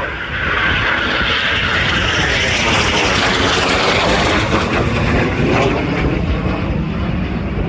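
Military aircraft's engines passing close overhead: the sound swells about half a second in and is loudest near the middle. Wind buffets the microphone underneath.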